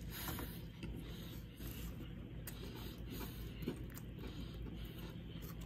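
A person chewing a bite of a crispy air-fried fish sandwich: faint, irregular small crunches and clicks over a low steady room hum.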